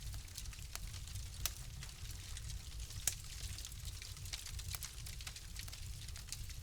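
Wood fire crackling in a fireplace: a steady run of small snaps and pops over a low rumble, with two louder pops about one and a half and three seconds in.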